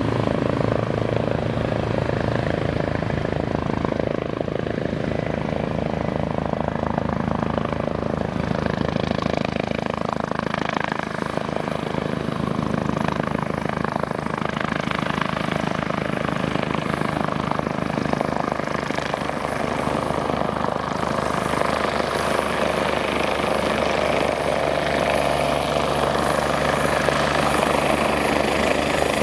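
Eurocopter BK 117 C-1 twin-turbine helicopter running, its main rotor giving a steady rhythmic beat. A thin, high turbine whine comes through more clearly in the second half.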